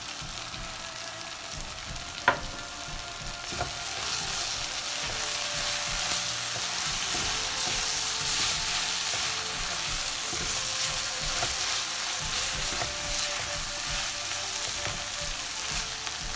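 Sliced onions and garlic sizzling in hot olive oil in a frying pan, stirred with a silicone spatula; the sizzle grows louder a few seconds in. A single sharp knock about two seconds in.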